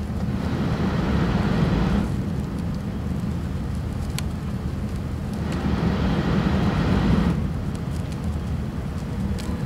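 E6 series shinkansen running at speed, heard inside the passenger cabin: a steady low rumble, with two stretches of louder hiss, one about a second in and one around six seconds in.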